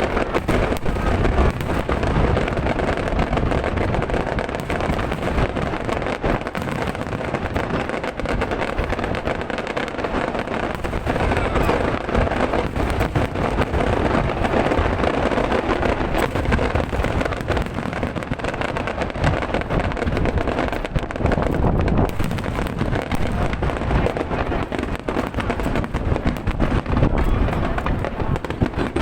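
Fireworks display going off: a dense, continuous run of bangs and crackling.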